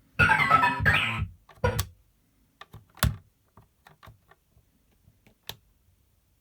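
Circuit-bent Millennium Falcon sound toy glitching: a brief garbled burst of a mangled sample, then scattered sharp clicks and pops with silence between.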